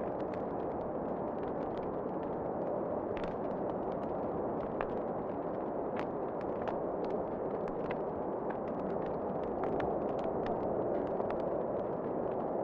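Wood fire crackling in a fireplace, with irregular sharp pops and snaps over a steady rushing wind.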